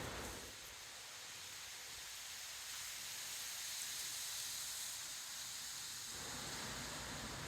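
Strong wind: the low buffeting of gusts on the microphone drops away about half a second in, leaving a steady high hiss of wind that swells a little near the middle. The buffeting returns about six seconds in.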